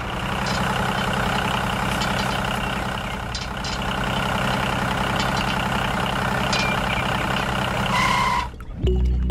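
Tractor engine running steadily at an even pace, then cutting off suddenly about eight and a half seconds in.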